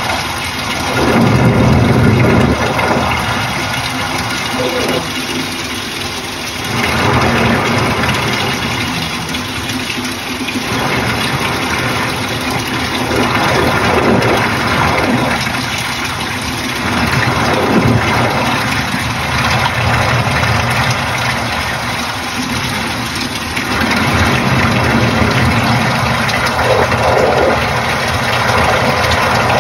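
Panasonic NA-FA80H8 top-loading washing machine running, its motor and the churning water rising and falling in surges every few seconds.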